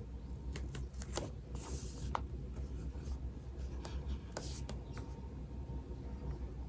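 Writing on paper: scattered short strokes and taps, with two longer scratchy strokes, one about one and a half seconds in and another about four and a half seconds in, over a low steady hum.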